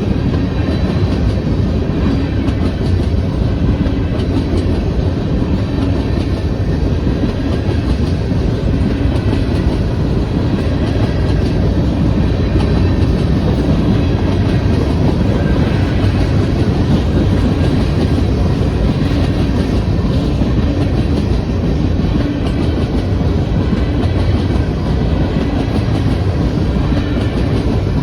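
Empty grain freight cars rolling past on the rails: a steady, loud rumble with the clatter and clickety-clack of wheels over the track.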